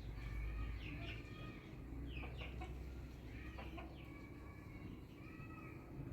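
Chickens calling: a string of short high chirps with a few longer drawn-out calls, over a low rumble.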